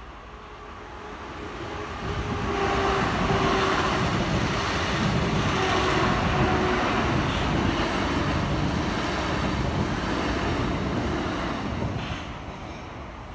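Electric passenger train passing over a level crossing: the rumble and wheel noise build over the first couple of seconds, run steady for about ten seconds, then fade near the end.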